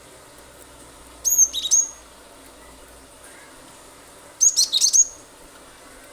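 Cinereous tit (gelatik batu) calling in two short bursts about three seconds apart, each a quick run of sharp, high, down-slurred notes.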